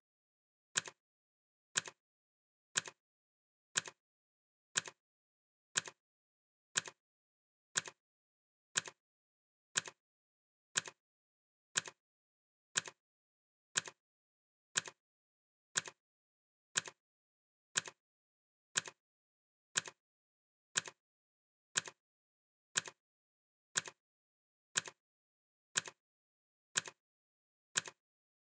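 Clock ticking sound effect: one sharp, even tick every second, each with a brief second click right behind it.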